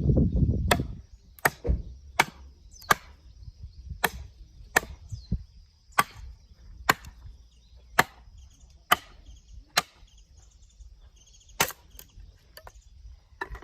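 Firewood being split by hand: a loud, low, noisy sound in the first second, then about a dozen sharp chopping strikes of a blade into wood, roughly one a second, with a short gap near the end.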